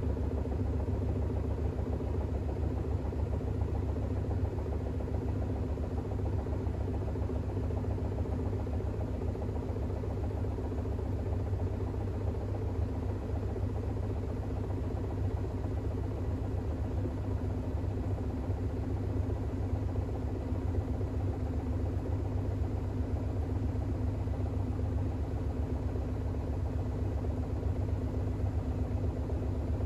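Bosch WAX32GH1 front-loading washing machine drum spinning in its intermediate spin with an unbalanced load of towels: a steady low hum with a few steady tones above it.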